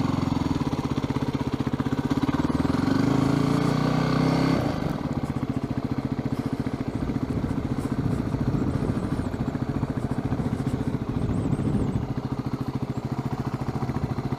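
Yamaha WR250R's single-cylinder four-stroke engine running while being ridden, holding a steady note, then easing off about five seconds in and running on at a lower, quieter pitch.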